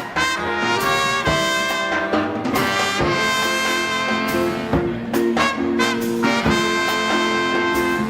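Live 1940s-style swing band playing an instrumental, horns (trumpet, trombone and saxophone) holding chords over drums.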